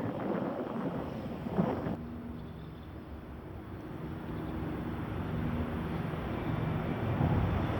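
Wind on the microphone outdoors, with the low, steady hum of a distant engine coming in about two seconds in.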